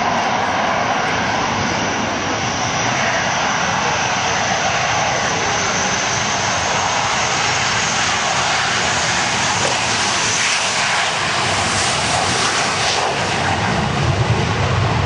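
Jet aircraft flying past, a loud, steady rush of jet noise with a faint high whine that slowly rises in pitch over the first half, typical of Hawker Hunters' Rolls-Royce Avon turbojets in a low display pass.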